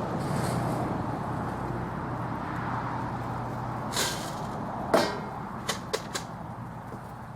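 Dog food bowls being set out, with a few sharp knocks and clatters: one about four seconds in, the loudest about a second later, then three quick ones. A steady low hum runs underneath.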